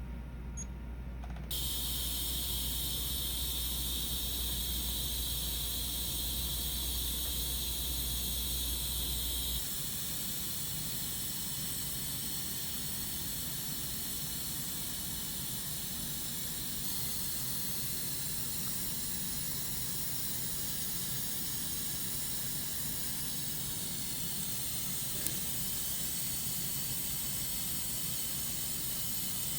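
A steady hiss of rushing air starts abruptly about a second and a half in and holds evenly. A low hum underneath it stops about ten seconds in.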